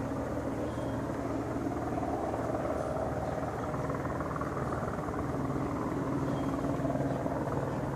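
Helicopter hovering: a steady drone of engine and rotor with a constant low hum, swelling slightly now and then.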